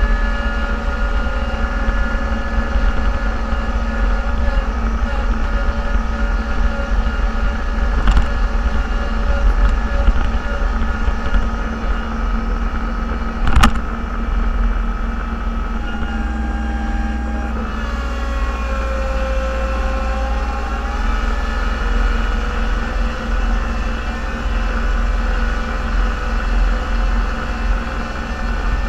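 Engine of a snowplow vehicle running steadily, heard from inside its cab as a low rumble with a steady whine over it. A sharp click sounds about halfway through, and the whine shifts pitch, dipping and rising again, about two-thirds of the way in.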